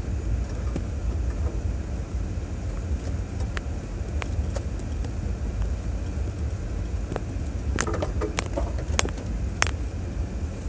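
2006 Chevrolet Trailblazer driving a rough trail: a steady low rumble with scattered clicks and rattles, bunched together about eight to ten seconds in.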